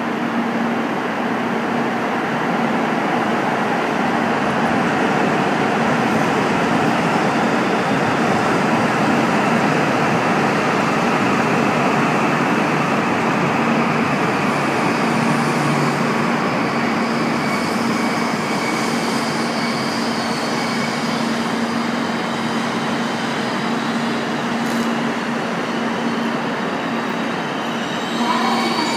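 E6 series Komachi Shinkansen train pulling slowly into a station platform: steady running noise with a low hum. Near the end it gets louder and high squealing tones begin as the train brakes to a stop.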